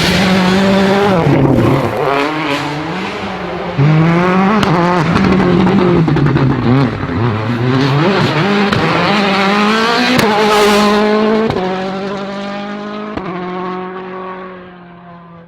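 A WRC rally car's turbocharged engine revving hard, its pitch climbing and dropping again and again through gear changes and lifts, with a few sharp cracks. Over the last few seconds it holds a steady note and fades as the car goes away.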